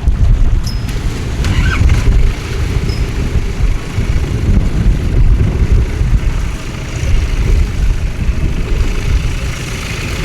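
Storm wind buffeting the microphone in a deep, uneven rumble, over a fainter hiss of heavy rain.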